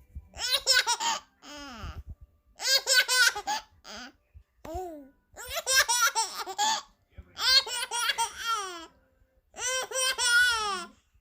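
A baby laughing in high-pitched bouts of rapid, chopped giggles. There are about eight bursts, separated by short pauses.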